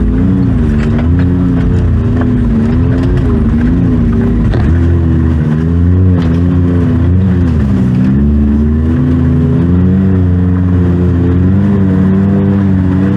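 Side-by-side UTV engine running under varying throttle, its pitch rising and falling over and over as the machine is driven over rough trail, with occasional knocks and rattles.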